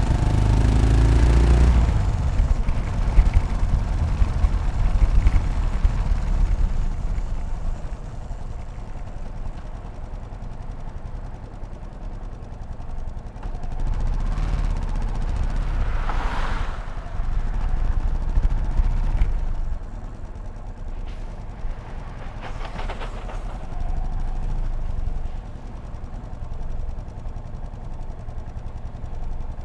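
Yamaha SR500's single-cylinder four-stroke engine running under way, revving up at the start and then settling to lower revs. A brief swell of rushing noise comes about halfway through.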